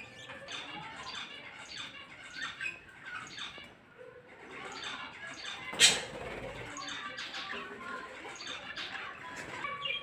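Several caged pet birds chirping and squawking continuously in short, overlapping calls, with one sharp knock about six seconds in.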